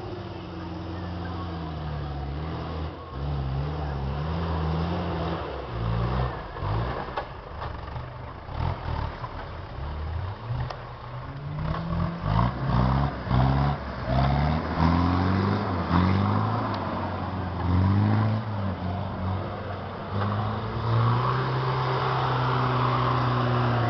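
Off-road 4x4's engine working on a steep dirt slope, revved up and down in repeated bursts, its pitch rising and falling several times, then held higher and steadier near the end.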